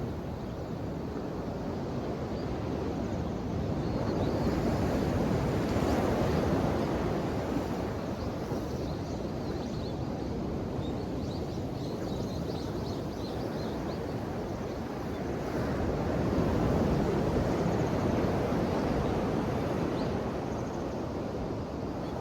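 Ocean waves washing onto the shore in a continuous rushing surf. Two larger waves swell up and die back, one a few seconds in and one past the middle.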